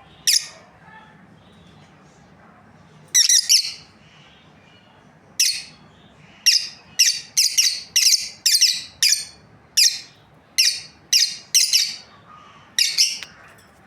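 Lovebirds giving short, high-pitched chirping calls: one call at the start, a quick cluster about three seconds in, then a run of calls at about two a second through the second half.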